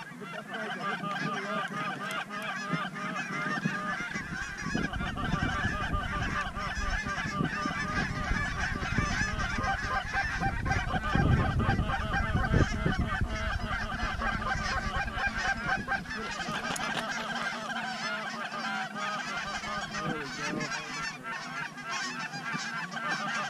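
A large flock of geese calling, many overlapping honks in a continuous chorus.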